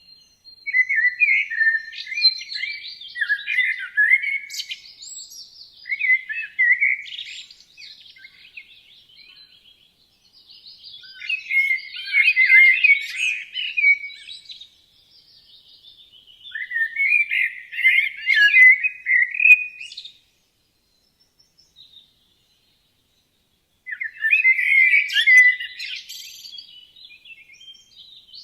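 A songbird singing in about five rapid, twittering phrases, each a few seconds long, with short pauses between them.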